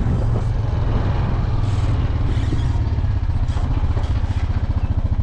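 Vehicle engine running with a strong low rumble, its beats growing more distinct toward the end as it slows.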